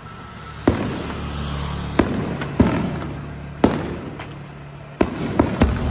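Fireworks bursting: seven sharp bangs at uneven intervals, each followed by a rolling rumble, with three quick ones near the end.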